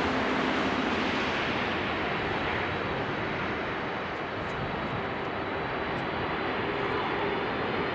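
Airbus A350-900's Rolls-Royce Trent XWB turbofans running at takeoff thrust: a steady jet roar with a faint hum, easing slightly about halfway through.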